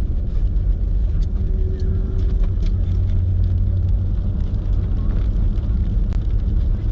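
Jeep Gladiator pickup driving, a steady low rumble of engine and road noise, with scattered light clicks and rattles from tools shifting in the truck.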